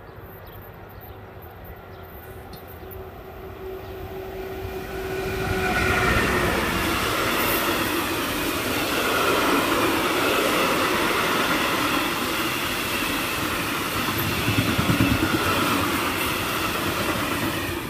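A freight train of covered hopper wagons hauled by an electric locomotive approaching and passing close by. A thin steady tone is heard as it approaches; from about six seconds in the loud rumble and rattle of the wagons rolling past takes over, dropping away as the last wagon clears at the very end.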